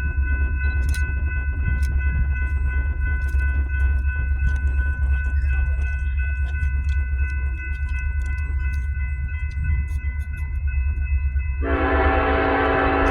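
Train rumbling past with scattered clicks and several steady high-pitched tones, then a locomotive horn blasts near the end.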